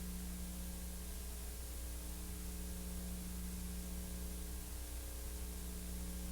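Steady hiss with a low electrical hum and no other sound: the empty soundtrack of a silent-film transfer.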